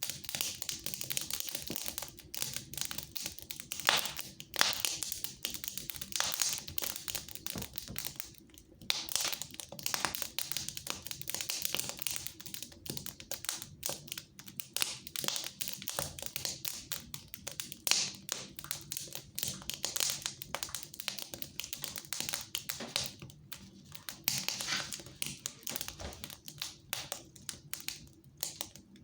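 Fire crackling in a fireplace: a dense, irregular run of small pops and snaps over a soft hiss.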